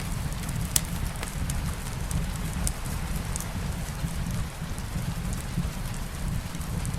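Steady rain with a deep rumble underneath, and a fireplace fire giving a few sharp crackles, the clearest under a second in.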